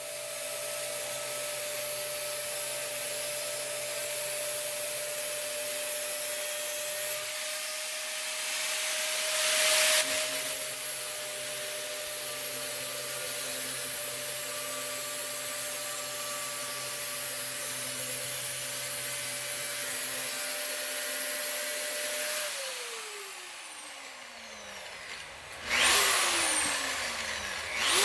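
A handheld power tool cutting sheet metal: a steady motor whine under a loud hissing cut. About 22 seconds in it is let off and its pitch falls as it spins down; it runs again briefly, spins down once more, and spins up again at the very end.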